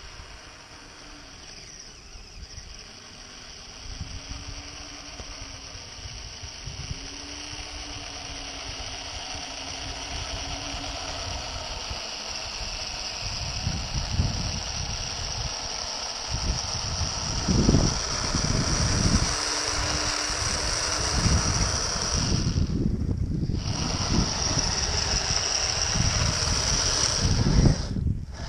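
Kyosho Blizzard RC snowcat running on its metal tracks, with a steady high electric whine and a motor tone that wavers in pitch, getting louder as it comes closer. Wind buffets the microphone through the second half.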